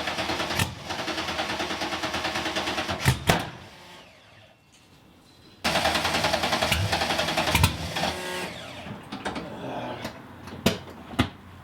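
Cold start of a 363 cubic-inch stroker V8 with race exhaust after months of sitting: the starter cranks with an even pulsing for about three seconds, the engine gives a couple of loud bangs without catching, then cranking resumes about halfway through with more bangs before the engine stumbles unevenly, with sharp pops near the end.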